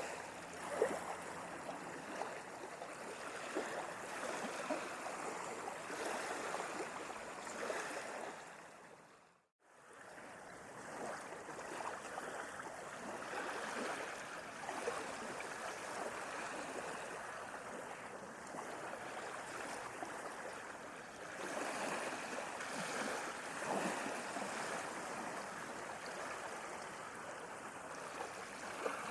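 Small sea waves lapping and splashing in a continuous wash of water, with little splashes scattered through it. About nine seconds in, the sound fades briefly to silence and then swells back.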